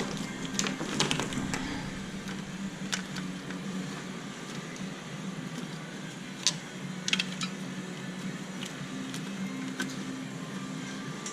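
Scattered metallic clicks and knocks, a few single and some in quick clusters, over a steady low hum: tools and parts being handled while the engine is taken out of the BMW E36.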